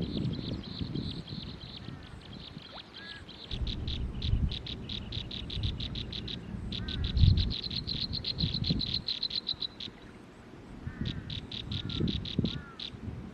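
An animal's rapid, high-pitched pulsing call in several trains of quick pulses, the longest lasting about three seconds, with a few faint short chirps and low rumbles underneath.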